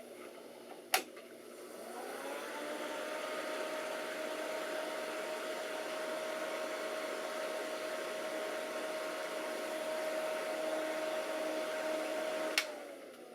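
Alienware Aurora desktop's cooling fans spinning up after a click about a second in, running loud and steady with a whining tone, then a click near the end and the fans winding down. The fans run hard, but the machine still gives no video.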